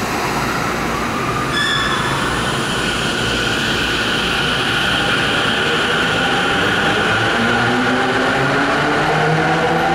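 Electric commuter train pulling out, its traction motors whining and rising steadily in pitch as it gathers speed, over the rumble of the wheels.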